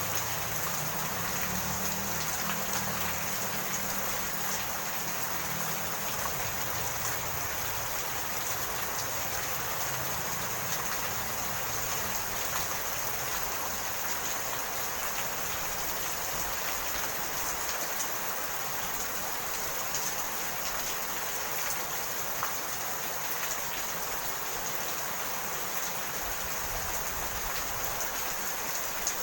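Steady rain falling, an even hiss of drops. A low rumble underneath fades out over the first several seconds.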